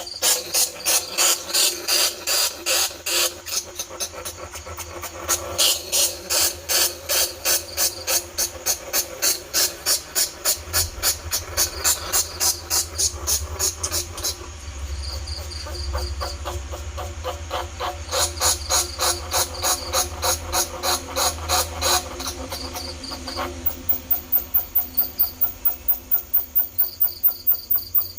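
Bandicoot rat squealing: quick repeated squeaks, about four to five a second, in several bouts with short pauses between them. It is a lure call, played to draw rats in for trapping.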